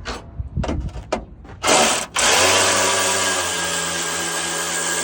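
Electric power drill, a short burst and then a steady run of about three seconds, as the front of the car is unbolted. A few clicks and knocks of handling come before it.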